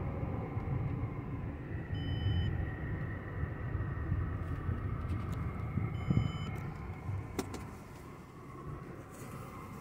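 Cabin sound of a Mercedes E320 CDI turbodiesel on the move at low speed: a steady low engine and road rumble. Two short, faint high beeps come about four seconds apart.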